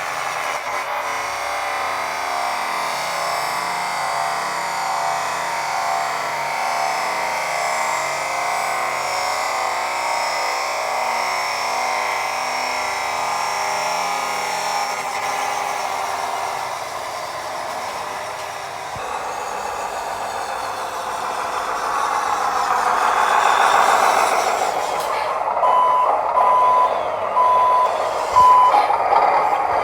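Truck sounds from a 1:24 RC International ProStar tractor truck: a steady running sound, then four evenly spaced reversing beeps near the end as it backs up.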